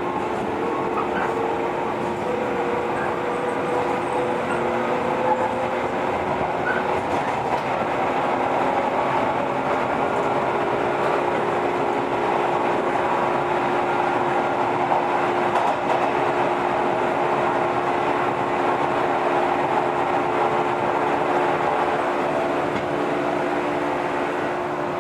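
JR 115 series electric multiple unit running along the line: a steady rumble of wheels on rail with clickety-clack, and a steady hum from the traction motors.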